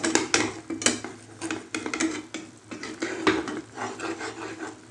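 A spoon or ladle clinking and scraping against a cooking pot as the soup is stirred, in irregular knocks.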